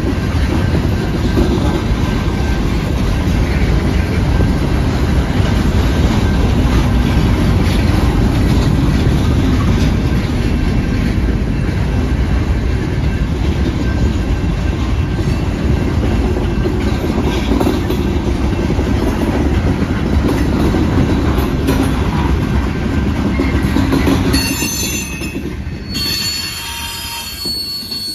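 Mixed freight train of covered hoppers and boxcars rolling past, with a steady rumble and the clatter of steel wheels on the rails. Near the end the rumble eases and thin, high wheel squeals come through.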